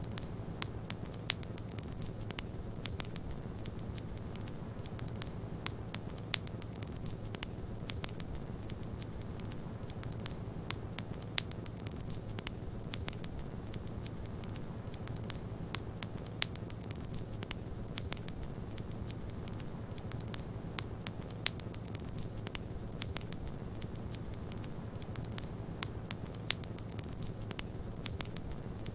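Wood fire crackling, with many sharp pops at irregular intervals over a steady low rumble.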